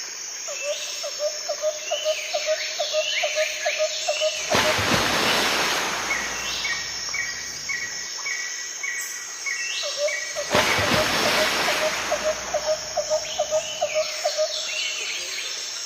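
Outdoor ambience of birds and insects: runs of quick repeated calls and a row of evenly spaced higher chirps, broken twice by a brief rush of noise.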